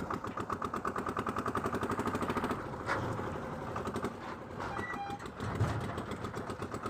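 Tractor engine running with a rapid, even beat of about ten pulses a second.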